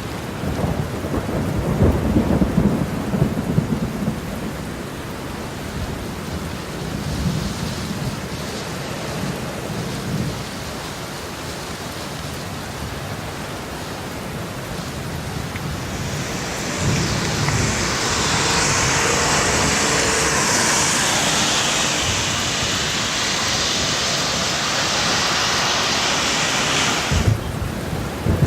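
Steady rain falling, with low rumbles of thunder in the first few seconds. A louder hiss swells in about two thirds of the way through and stops suddenly near the end.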